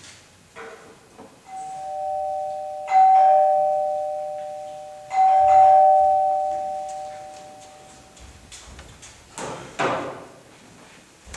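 Two-tone electronic doorbell chime rung twice, a high and a lower note together, each ring dying away over a couple of seconds. A short thump follows several seconds later.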